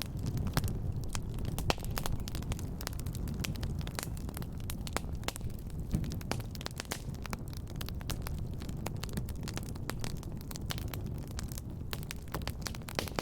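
Fire crackling in a fireplace: a steady low rumble of flames with frequent sharp pops and snaps.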